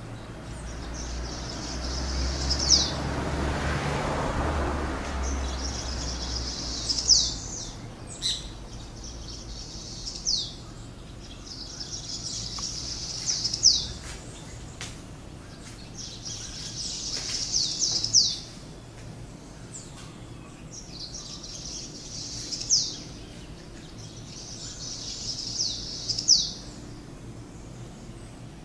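A songbird singing the same high, buzzy phrase over and over, each lasting a second or two and ending in a sharp note, about seven times, every three to four seconds. A low rumble underlies the first several seconds.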